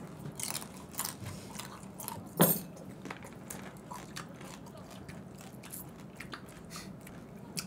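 Chewing and crunching on pieces of seasoned raw crab (yangnyeom gejang), shell and all: a string of small, irregular crackles with one louder crunch about two and a half seconds in.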